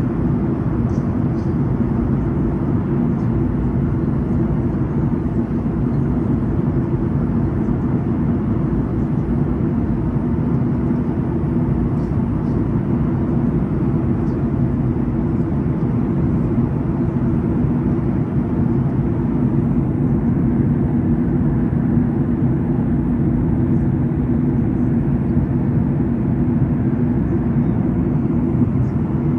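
Steady drone of an airliner cabin in flight: engine and airflow noise, deep and even, with no change in level.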